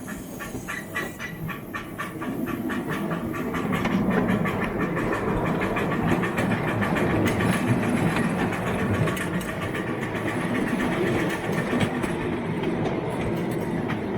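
Small-gauge garden railway train running on its track, its wheels clicking rapidly over the rail joints. The rumble grows louder over the first few seconds as the train draws near, then holds steady.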